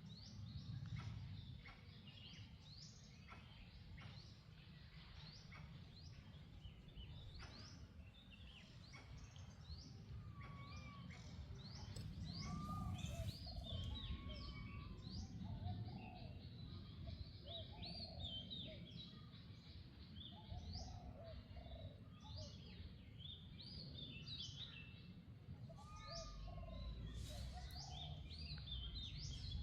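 Many birds chirping and calling, short rising chirps overlapping densely, over a steady low rumble.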